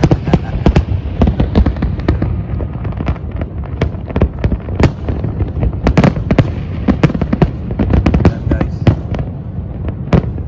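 Fireworks display: aerial shells bursting in quick, irregular succession, several bangs a second over a continuous low rumble.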